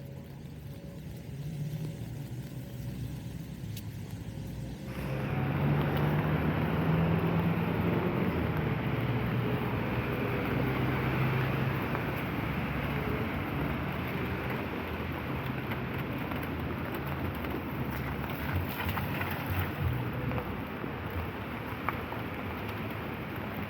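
Traffic on a wet street in the rain: low engine hum with tyre hiss on wet asphalt, which swells suddenly about five seconds in and stays loud.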